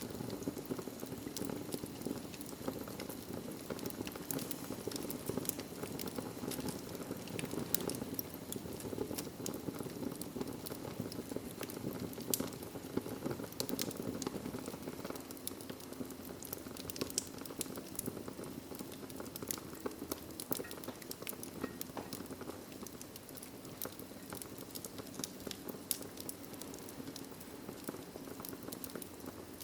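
Wood fire crackling steadily: a soft low rush of flames with many small, irregular pops and snaps.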